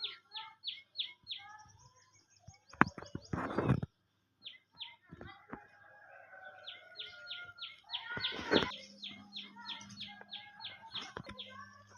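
Birds chirping in quick runs of short, falling chirps, about four a second. A couple of bursts of knocking and rustling come around 3 s and 8.5 s.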